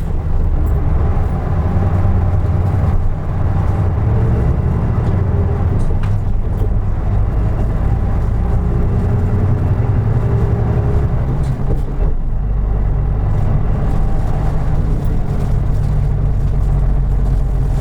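2003 Isuzu Erga Mio (KK-LR233J1) diesel city bus running along the road, with a steady low engine drone and road noise. About twelve seconds in the engine note changes and the higher road noise falls away.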